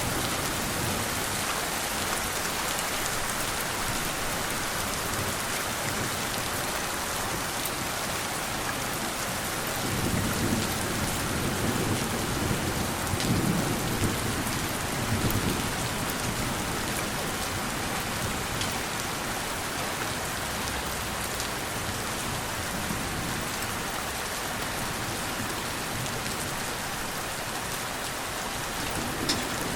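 Steady rain falling, with a gentle roll of thunder that swells for several seconds about a third of the way in.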